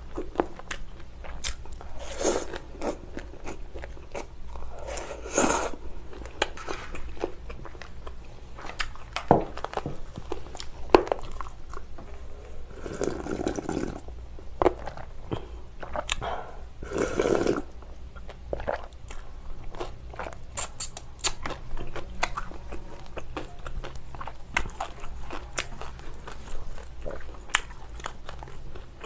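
Close-miked eating: crunchy chewing of kimchi and cold noodles, many short crisp crunches, with longer slurping sips of broth from a stainless steel bowl about halfway through.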